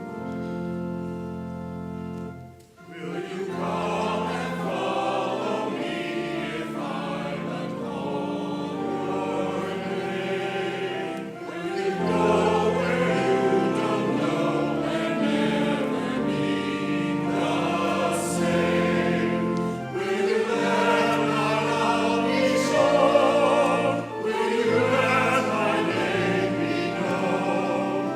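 An organ holds a chord that ends about three seconds in, then a church choir sings with organ accompaniment.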